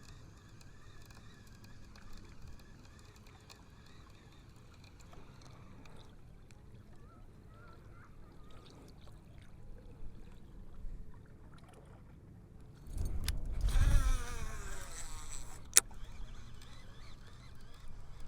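A cast with a baitcasting reel: a whoosh as the rod swings, and the spool's whir falling in pitch over about two seconds as the line pays out, then a sharp click as the reel is engaged.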